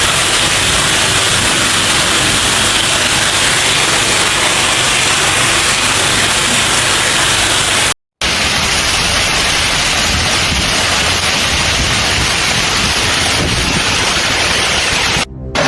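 Torrential rain pouring down, a loud steady hiss. It cuts off abruptly about eight seconds in and resumes at once, then dips briefly near the end.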